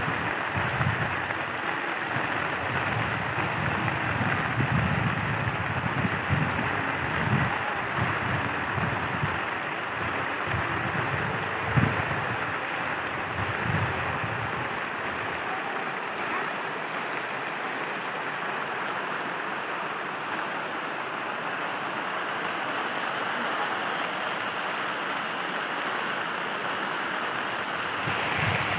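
Heavy rain pouring down steadily, a dense even hiss. Irregular low thumps come and go through the first half, with one sharper knock about twelve seconds in.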